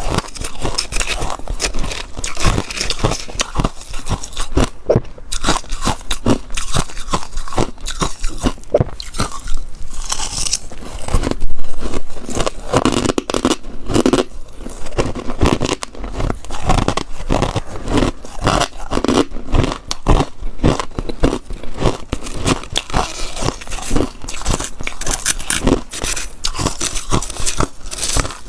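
Close-up crunching of freezer frost being bitten and chewed, a dense run of crisp crackling bites with a louder crunch about a third of the way in.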